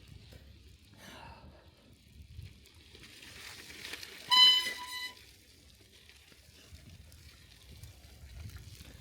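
Bicycle tyres rolling over a snowy street, a low uneven rumble. About four seconds in, a short high-pitched beep, broken once near its end, cuts in as the loudest sound.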